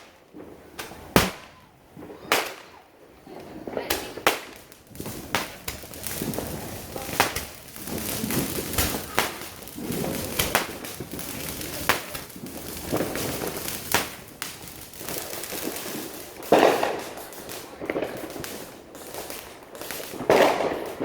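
Fireworks and firecrackers going off in a steady run of sharp bangs and crackles, with two heavier bangs in the last few seconds.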